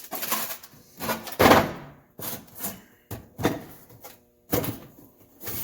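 Items being handled and set down in a service truck's toolbox: a string of irregular knocks and clunks with some rubbing, the loudest about one and a half seconds in.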